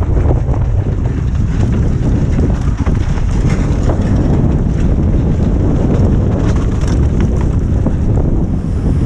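Heavy wind buffeting on the microphone while a mountain bike descends a trail at speed, with a steady low rumble and a constant scatter of short clicks and rattles from the bike over the rough ground.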